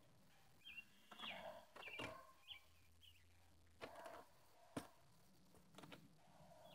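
Faint birds chirping in short calls, with a few soft knocks and clicks in between.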